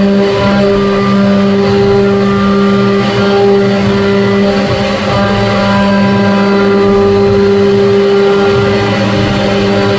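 CNC machine running with a steady, level-pitched hum.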